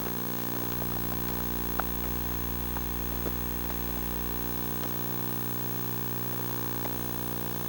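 Steady electrical buzz from a Sony Hi8 Handycam's own audio, a constant hum with many overtones, with a few faint small ticks over it.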